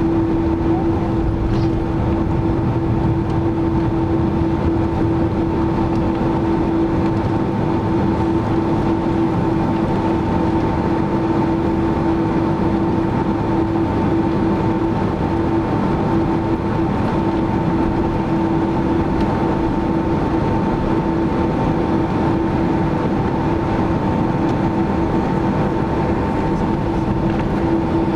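Steady cabin noise of a Boeing 767-300ER in flight: a constant rushing drone from the jet engines and airflow, with a steady low hum and a fainter higher hum running through it.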